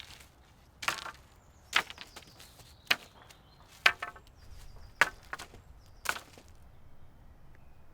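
Wood being chopped: six sharp blade strikes into wood, about one a second, stopping about six seconds in.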